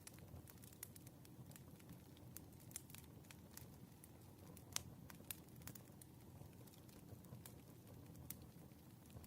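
Campfire crackling: irregular small pops and snaps over a low, steady rumble of burning wood, with one louder pop about five seconds in.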